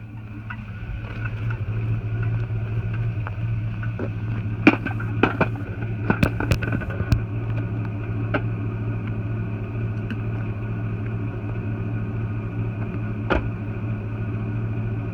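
Chevy Avalanche V8 idling steadily through a Flowmaster 40 muffler, single in and dual out, heard from behind at the exhaust. A few sharp clicks or knocks come in the middle and once near the end.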